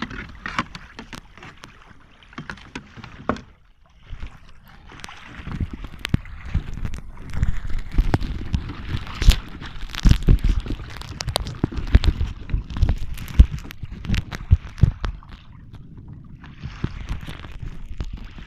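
Water rushing and splashing along a sailing kayak's hull as it moves at speed, with many small slaps and knocks. It is louder and heavier through the middle stretch.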